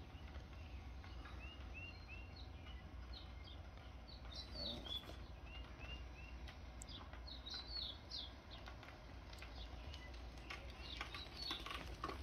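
Faint birdsong: songbirds chirping and twittering, with short arching notes repeated in little groups of three, over a low steady rumble. A few light clicks come near the end.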